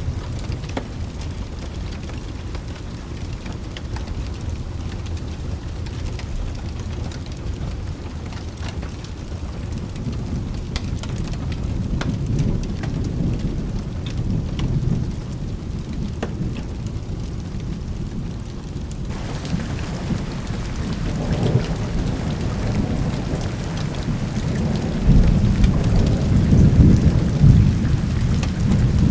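Steady rain with low rolling thunder, the rumble swelling heavier near the end. About two-thirds of the way through, the hiss of the rain turns suddenly brighter.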